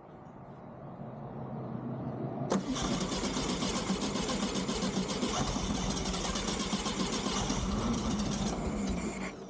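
Starter motor cranking a 1969 Volkswagen Beetle's air-cooled flat-four, an engine not run in about a decade, turning over without firing while the ignition is checked for spark. The cranking comes in abruptly about two and a half seconds in, after a building lead-in, runs evenly for about seven seconds and stops just before the end.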